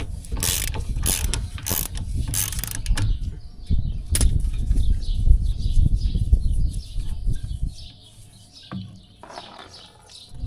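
Ratchet wrench clicking in a run of quick strokes, then a low rumbling noise that dies down near the end.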